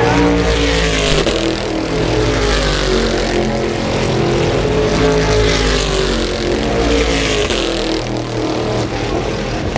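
Racing stock cars at full throttle passing one after another, their engines rising and falling in pitch as each goes by.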